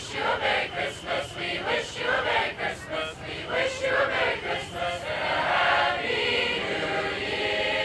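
A choir singing: short rhythmic phrases, then a sustained chord held from about five seconds in.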